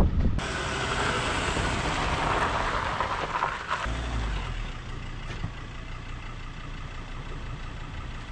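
A four-wheel drive running along beach sand on tyres let down for the sand, with steady engine and tyre noise that is louder in the first half and eases off after.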